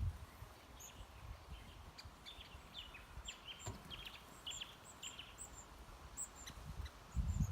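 Small wild birds chirping: a run of short, high chirps and twitters. A low rumble starts near the end.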